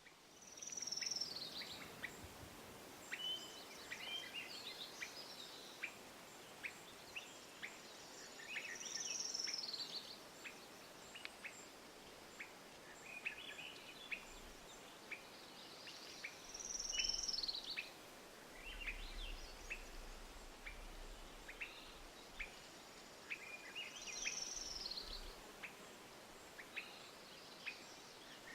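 Songbirds calling over the steady hiss of flowing creek water. A slurred, falling high call comes back about every eight seconds, with short chips scattered between.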